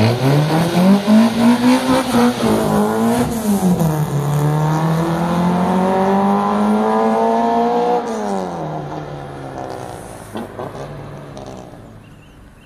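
Toyota AE86 drift car's engine revving hard: the pitch climbs, dips sharply, then climbs steadily for several seconds. Near the end it drops away and fades out as the car moves off.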